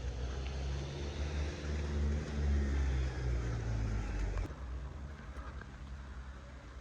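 A motor vehicle's engine running, a low rumble with a steady hum, which cuts off abruptly about four and a half seconds in, leaving a quieter hiss.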